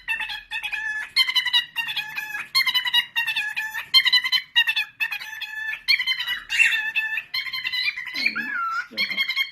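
A bird calling repeatedly in fast trilled, chattering phrases, with two short, lower gliding calls near the end.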